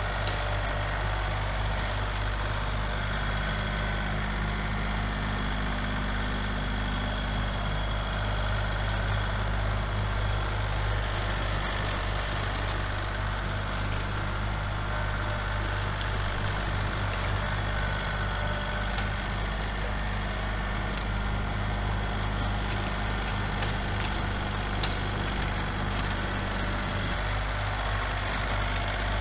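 Small tractor engine running steadily while powering a brush hog (rotary cutter), its note shifting slightly near the end.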